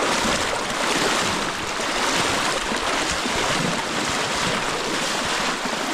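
Steady rush of the Ngaruroro River's flowing water.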